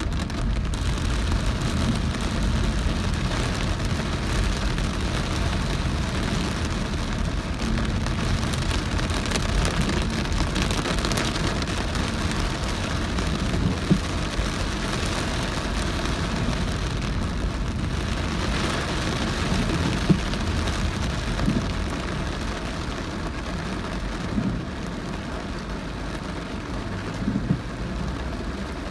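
Heavy rain pelting a moving car, a steady dense hiss over the low rumble of the car on a wet road. A few single sharp taps or knocks stand out, about halfway through, about two-thirds through and near the end.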